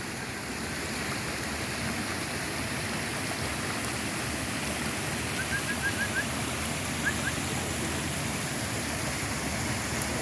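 Rain-swollen creek and waterfall rushing, a steady, even wash of water sound. A few faint short high chirps come through about halfway in.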